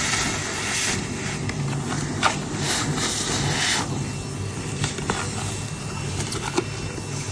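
Bee vacuum running steadily, a low motor hum under an even suction hiss, as the nozzle sucks up a cluster of honeybees. A few brief louder whooshes come through, about one, two and a half and four seconds in.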